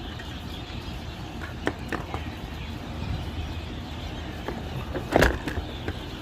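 Small clicks and knocks of hands working at an automotive relay box as the starter relay is pulled out, with one louder sharp knock about five seconds in, over a steady low background hum.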